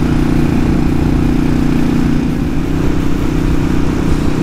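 Yamaha Virago V-twin café-racer motorcycle engine running steadily at cruising speed, heard from the rider's seat under steady wind and road rush; the engine note shifts slightly about halfway through.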